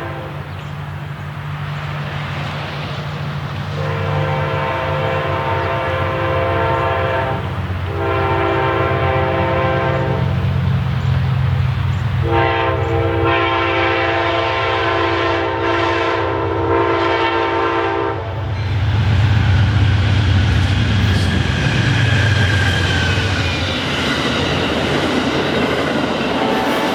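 Amtrak passenger train passing: the diesel locomotive sounds its air horn in three blasts, the last and longest about six seconds, then its engine rumble swells as it goes by. The passenger cars follow with a steady rush of wheel noise and clickety-clack on the rails.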